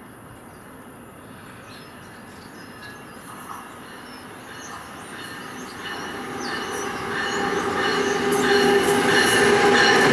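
Passenger train approaching on the tracks, growing steadily louder over the second half, with several steady high tones ringing over the rumble of the wheels.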